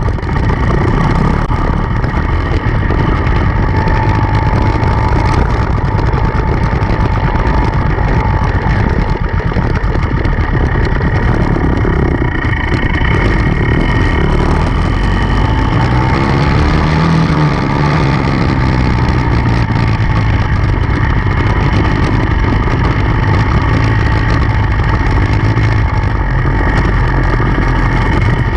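Enduro dirt bike engine running loud and continuously, its pitch shifting a little as the throttle changes.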